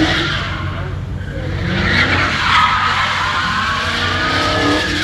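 Dodge Hellcat's supercharged 6.2-litre V8 running under hard throttle with its tyres squealing; the squeal grows louder about two seconds in.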